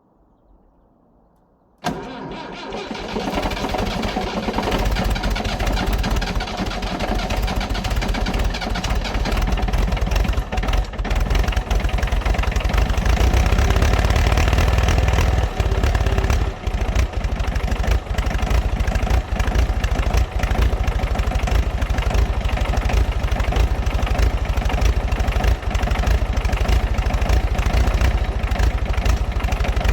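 International B275 tractor engine cold-starting in hard frost: it catches suddenly about two seconds in and keeps running, settling into a fast, rough idle.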